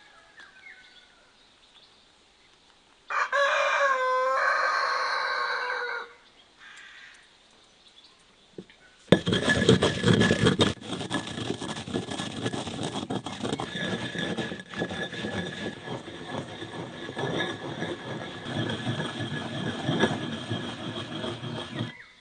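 A rooster crows once, a single drawn-out call about three seconds in. From about nine seconds on, a loud, dense crackling hiss with many sharp clicks takes over.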